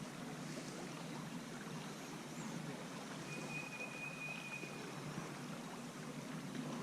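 Steady rush of flowing river water, with a single thin high tone held for under two seconds about three seconds in.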